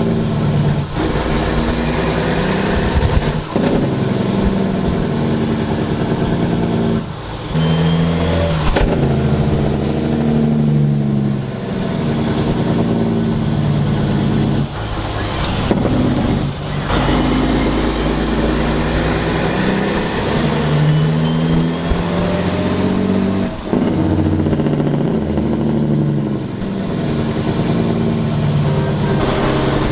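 Semi-truck diesel engines running and revving, their pitch stepping up and down every second or two.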